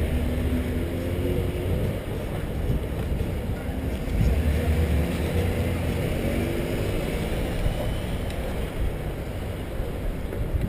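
Wind rumbling on the microphone of a camera riding along on a bicycle, with a faint motor hum that wavers in pitch.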